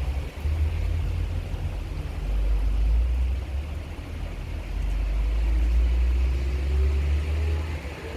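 Strong wind buffeting the microphone in gusts, a deep rumble that swells and eases, over the steady hiss of heavy rain.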